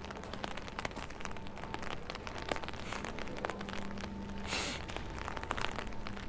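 Rain falling, with many separate drops tapping close to the microphone over a faint steady hum. A brief hiss about four and a half seconds in.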